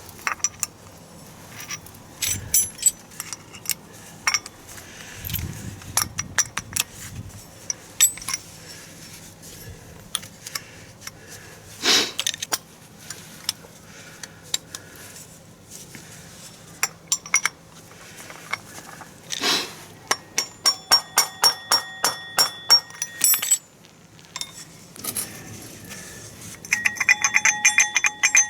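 Metal tools and parts clinking and knocking during hands-on work. There is a run of quick ringing metal ticks, about four a second, around twenty seconds in, and a rapid metallic jingle near the end.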